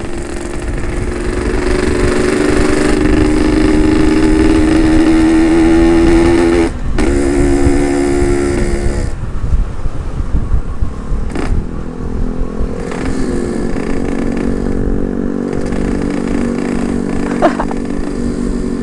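Yamaha RX-King 135cc ported two-stroke single running hard under throttle, with a brief break near seven seconds as for a gear change. Near nine seconds it eases back and runs steadier at lower revs, with wind rumble on the helmet mic.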